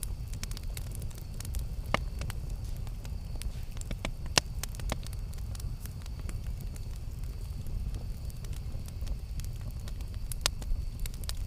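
Campfire burning with a steady low rumble and scattered sharp crackles and pops, a few louder pops standing out, the loudest about four seconds in.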